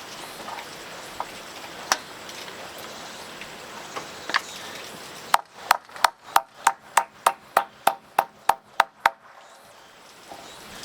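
A hammer striking wood: two single knocks, then a quick, even run of about fifteen ringing blows, about four a second, that stops a little before the end.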